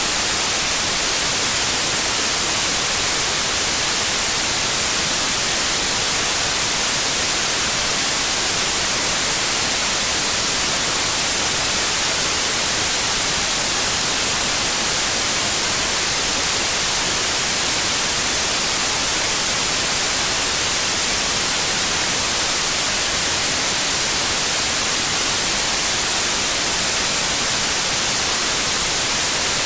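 Steady, continuous white noise: an even hiss weighted toward the high end, with no changes or breaks.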